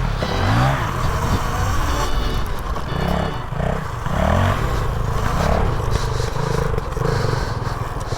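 Off-road vehicle engine revving up and down over and over, its pitch rising and falling about twice a second, with some clatter.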